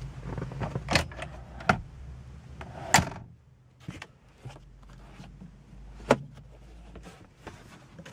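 A series of sharp clicks and knocks from the car's interior fittings being handled, the loudest a thump about three seconds in, over a low steady hum.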